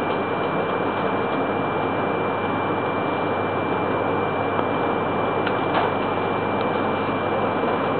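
Steady running noise of a Shinkansen train heard from inside the passenger car while it runs through a tunnel, with a thin, steady high tone over it. A couple of faint clicks come a little past the middle.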